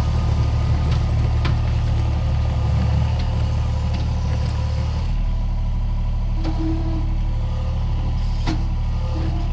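An engine running steadily with a deep drone, its note shifting lower about five seconds in, with a few light knocks.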